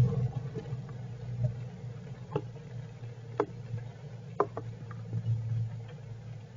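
Heavy rain outside the squirrels' shelter: a steady low rain noise with separate sharp drip ticks, about one a second in the middle.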